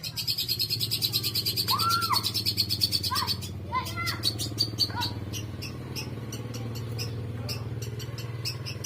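Long-tailed shrike singing: a fast, high chattering trill of rapidly repeated notes for about three seconds, with a few arched whistled notes, then scattered sharp calls that thin out about five seconds in. A steady low hum runs underneath.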